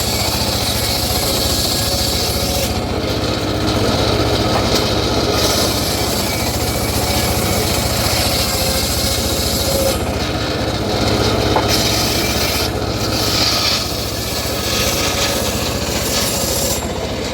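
Homemade engine-driven circular saw cutting through teak wood: a steady low machine hum under a loud rasping hiss of the blade in the timber, which dips and swells as the cut goes on.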